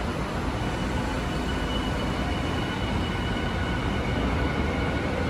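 Tokyu 5000-series electric train pulling out of an underground station platform: a steady rumble of wheels and motors, with a thin high whine held for a few seconds in the middle.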